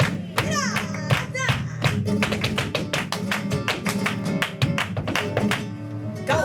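Live flamenco tangos: guitar playing in rhythm under a steady run of sharp percussive strikes, with a singer's voice gliding and trailing off in about the first second and a half.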